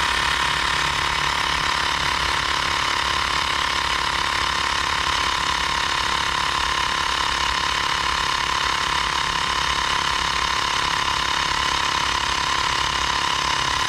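Mi Portable Electric Air Compressor running steadily, its small battery-powered motor and pump giving an even, loud buzz as it inflates a bicycle tyre.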